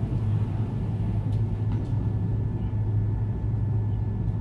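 Steady low hum with no speech, and two faint clicks about a second and a half in.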